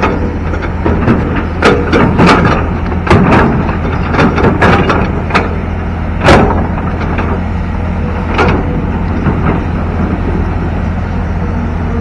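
Excavator's diesel engine running steadily, with irregular knocks and clanks as the machine works at the riverbed, loudest about six seconds in and fewer after about nine seconds.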